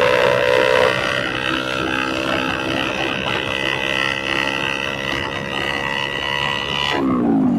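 Motorcycle engine running through an SC Project aftermarket exhaust with the dB killer (baffle) removed, a steady, even drone. Near the end it drops away abruptly, its pitch falling as the revs come down.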